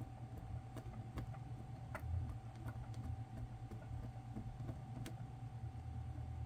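Faint, scattered small clicks and scratches of a hand tool picking and scraping at a small circuit board, over a steady low hum with a faint high whine.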